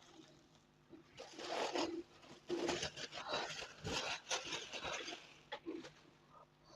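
Close-miked eating sounds: wet chewing and mouth smacking over starch and peanut soup, in several irregular clusters, busiest from about a second in until about five seconds in.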